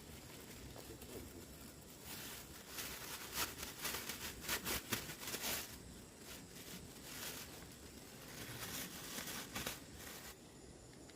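Irregular rustling and crinkling of something being handled, heaviest in the middle few seconds.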